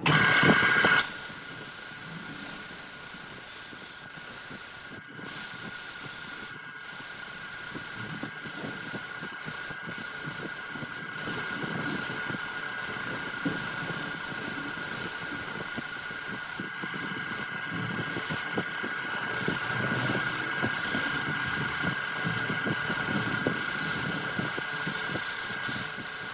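A wood lathe runs with a steady whine while work is pressed against the spinning wood, making a continuous rough, hissing scrape. The scrape is loudest in the first second and breaks off briefly a few times.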